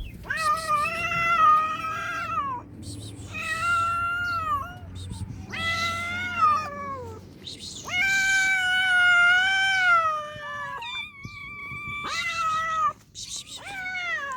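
A hungry cat meowing over and over: about six long, drawn-out meows with short pauses between them. The longest, about halfway through, lasts nearly three seconds, and several fall in pitch at the end.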